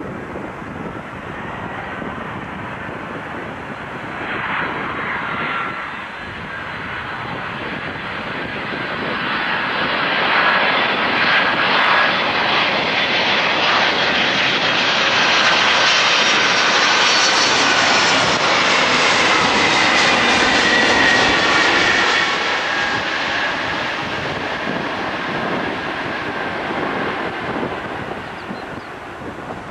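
Boeing 747-200 freighter's four jet engines as the aircraft passes by. The sound builds to a peak for about the middle ten seconds, with a whine over the jet noise, then fades away.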